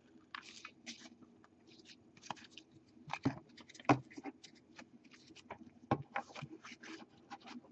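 Trading cards being handled and flipped through: soft scattered rustling and light clicks of card stock, with a few sharper taps a few seconds in and again around six seconds.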